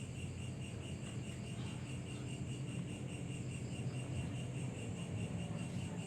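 Insects trilling steadily, a high pulsed chirr repeating about five times a second, over a low steady hum.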